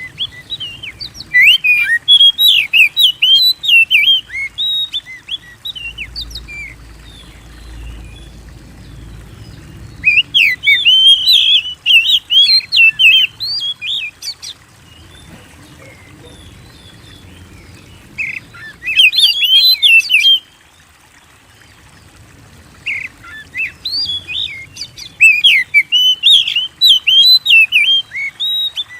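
Oriental magpie-robin singing loud, rapid, varied phrases of whistles and chirps in four bursts with short pauses between them.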